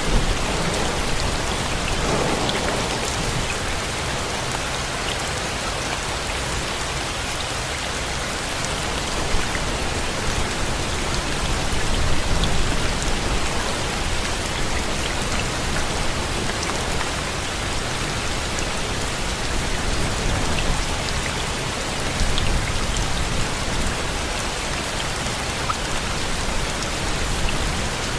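Steady rain falling, with individual drops pattering on a surface and a low rumble swelling now and then.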